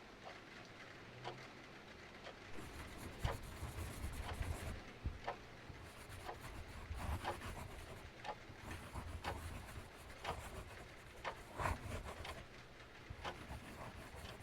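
Wood fire crackling and popping with a low rumble, over an even hiss of rain. A clock ticks steadily, about three ticks every two seconds.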